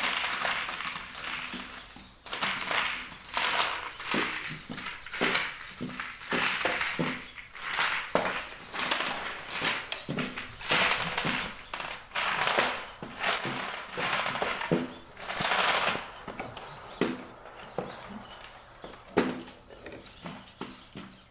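Legged search-and-rescue contest robot walking, its leg servos and feet making irregular clattering, whirring bursts about once or twice a second.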